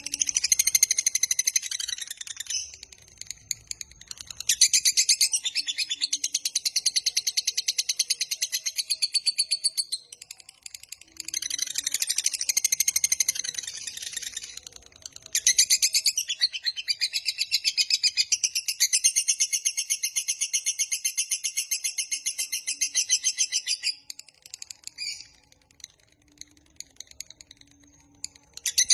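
Lovebird in long 'ngekek' song: fast, high-pitched chattering trills in four long runs with short breaks, the longest lasting about eight seconds.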